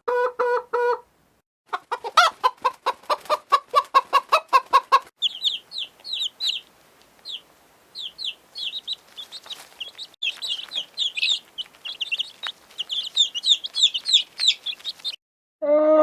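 Chickens: a hen clucking in fast runs of rapid calls for the first five seconds, then many short, high chirps in quick bursts until it stops near the end.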